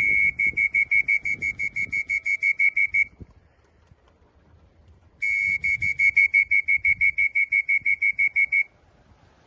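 An electronic beeper sounding one high, steady pitch. It pulses in rapid beeps, about five a second, for about three seconds, falls silent for two seconds, then sounds again: a long beep breaking into the same rapid beeps for another three and a half seconds.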